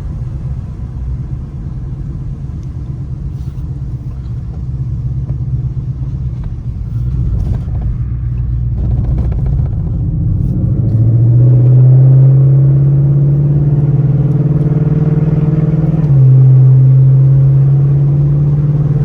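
Ford Mustang GT's V8 engine droning while driving. About ten seconds in it gets louder and rises a little in pitch as the car accelerates, with a short break and step up again near the end.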